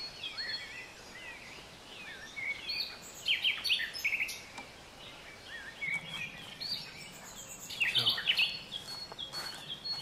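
Small birds chirping and calling in short, high, scattered notes, with louder bursts of calls about three seconds in and again near the end, over a steady background noise.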